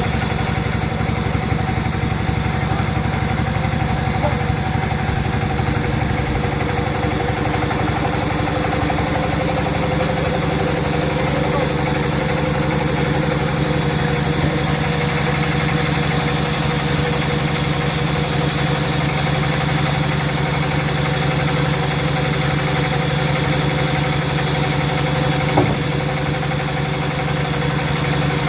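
Sawmill machinery running steadily, an even mechanical drone with a fine pulsing beat, and one short knock near the end.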